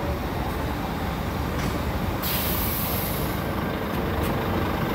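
Engine of a Busscar Vissta Buss DD double-decker coach running steadily, with a sharp hiss of released air about two seconds in that lasts about a second, typical of the air brakes, and a shorter hiss near the end.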